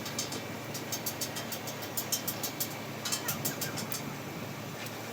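Komatsu PC-200 excavator's diesel engine running steadily, with a sharp ticking about five times a second that stops about four seconds in.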